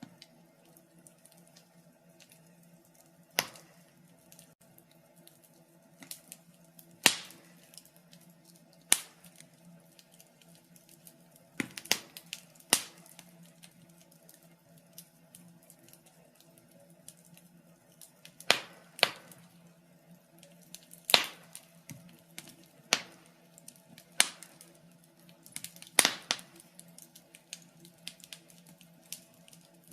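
Wood fire in a fireplace crackling, with sharp irregular pops and snaps every second or few, over a faint steady low hum.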